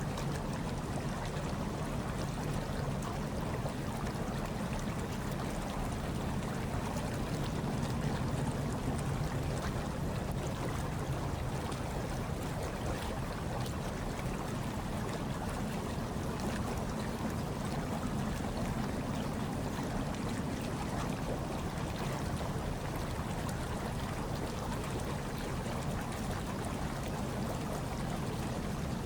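Hot tub water bubbling and churning steadily, with a low rumble underneath and many small splashes.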